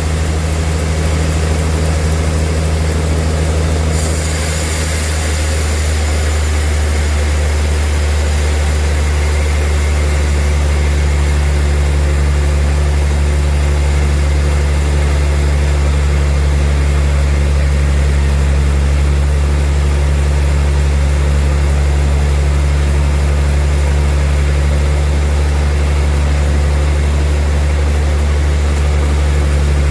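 Sawmill machinery running steadily: a deep, constant hum with a hiss over it, the hiss growing brighter about four seconds in.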